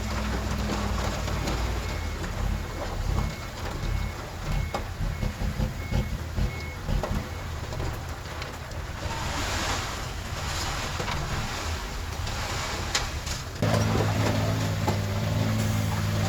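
Heavy-equipment diesel engines run at a work site. A faint reversing beeper sounds about twice a second and stops about halfway through. A hiss follows, and near the end an engine abruptly comes up loud under load.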